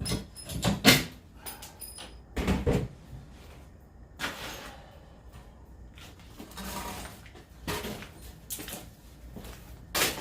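Irregular knocks and clunks of wooden boards being handled and struck during demolition work, one every second or two, the loudest near the start.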